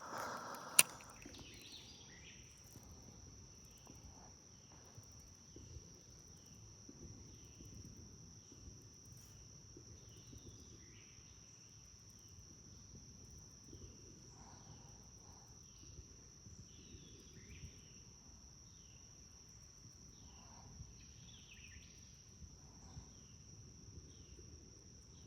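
Steady high-pitched insect drone with short falling chirps repeating about once a second, and one sharp click just under a second in.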